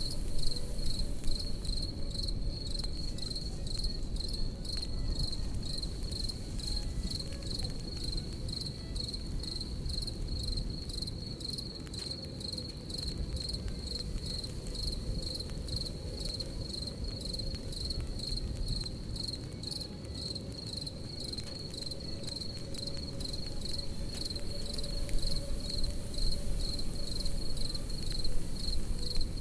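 Crickets chirping in a steady, fast-pulsing trill over a crackling campfire: a low rumble of burning wood with scattered sharp pops and snaps, a few louder ones near the start and toward the end.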